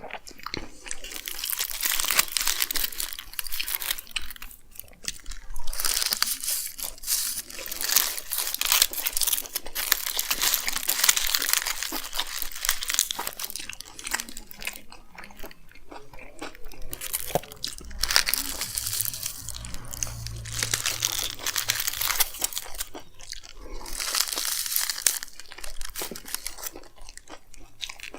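Close-miked chewing and biting into chicken frankie rolls, with wet crunching mouth sounds coming in bursts between short pauses, and crinkling of the paper or foil wrapper at times.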